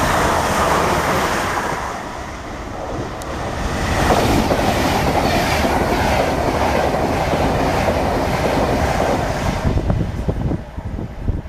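A train running past on the rails, wheels clattering, loud throughout; the noise eases briefly about two seconds in, then swells again and dies away about ten seconds in.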